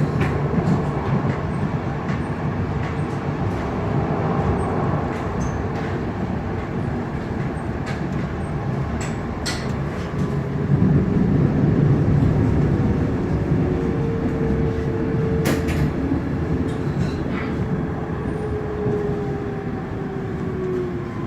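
Frankfurt U-Bahn train running, heard from inside the car: a steady rumble of wheels on rail with scattered clicks and, from about two-thirds of the way in, a motor whine that falls slightly in pitch.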